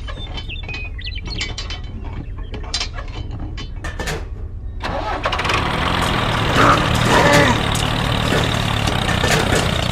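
Scattered small clicks and clinks, then an engine starts about halfway through and keeps running steadily.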